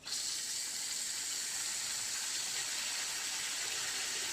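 Water running steadily from a tap into a cooking pot, filling it to boil. The flow starts suddenly and does not let up.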